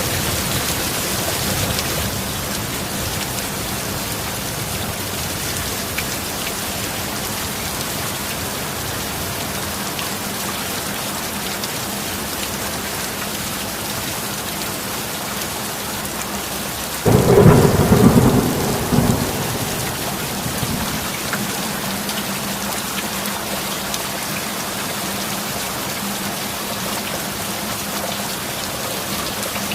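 Steady heavy rain hissing throughout, with a faint steady low tone beneath it. About seventeen seconds in, a single clap of thunder breaks in suddenly, rumbles loudly for about two seconds and fades away over the next few.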